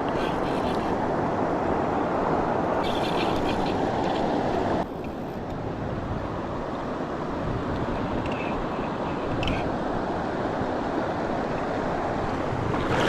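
Steady rushing of river water, with wind buffeting the microphone; the sound drops abruptly about five seconds in.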